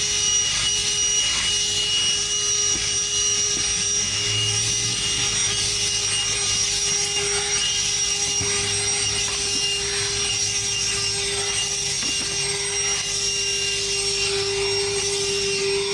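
Self-service car wash pressure wand spraying water at full pressure: a steady rushing hiss with a constant high whine, running without a break.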